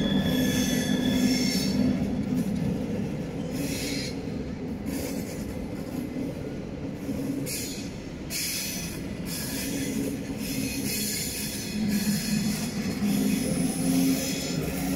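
SBB trains rolling over a field of switches, with a steady low rumble, high-pitched wheel squeal near the start and again in the second half, and a few short clatters as wheels cross the points.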